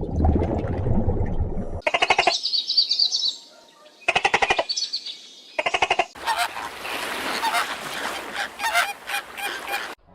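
Domestic fowl calling: three bursts of rapid, pulsing calls a second or two apart, after a low rumble at the start, then a few seconds of hissing noise with scattered clicks.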